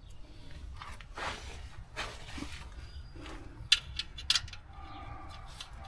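Hand tools and parts being handled while the oil drain cap is refitted: a few soft rustling swishes, then two sharp clicks about half a second apart.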